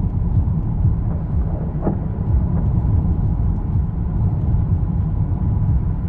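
Loud, steady low rumble that flickers continuously without any clear event.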